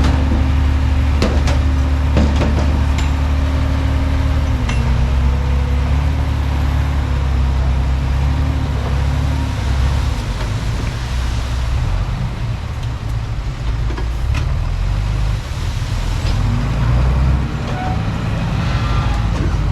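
Bulldozer's diesel engine running with a deep steady hum, its note dropping slightly about four to five seconds in, with scattered knocks throughout.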